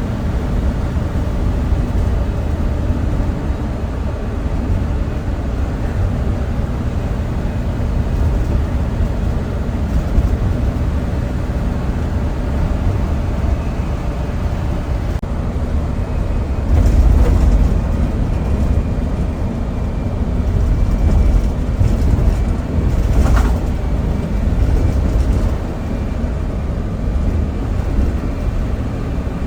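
Passenger airliner cabin noise: a steady low rumble of the engines and airflow heard from inside the cabin, swelling louder briefly a little past halfway and again a few seconds later.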